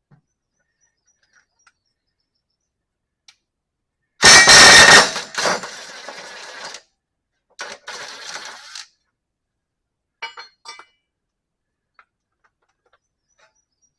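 Metal clattering and scraping against a steel mower deck: one loud burst about four seconds in that rings and trails off, a shorter second burst a couple of seconds later, then a few light clicks.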